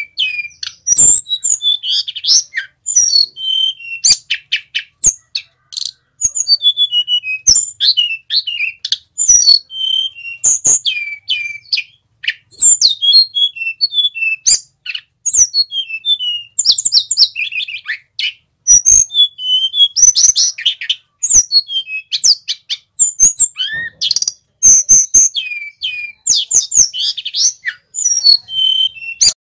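Male Sulingan Gunung flycatcher singing without pause: fast strings of high, clear whistled notes that slide up and down, phrase after phrase with only short breaks. Scattered sharp clicks sit among the notes.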